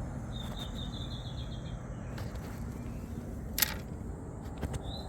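A bird singing a quick trill of repeated high notes over a steady low outdoor rumble, with a single sharp click about three and a half seconds in and a second chirping phrase starting near the end.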